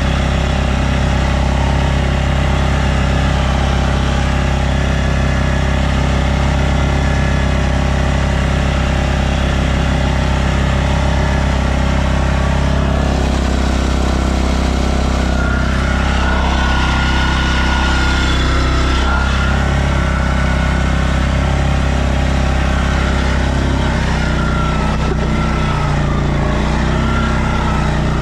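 Stels Leopard 650 quad bike engine running steadily under way. Its note shifts about halfway through, and a thin whine sets in and holds through the second half.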